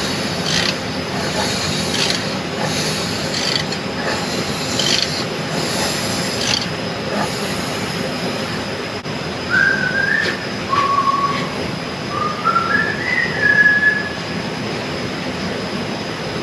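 Steady workshop background noise with a series of short scraping or rubbing strokes, about one a second, through the first half. A few short whistled notes stepping up and down in pitch follow about ten seconds in.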